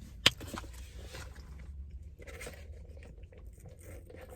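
Handling of fast-food packaging and food: a sharp click about a quarter second in, then soft rustling and scraping, over a low steady rumble.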